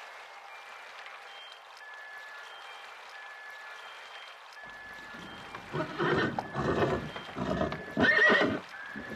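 Horses neighing in a run of short, loud calls that start about halfway through, the loudest near the end. A steady hiss lies under the first half.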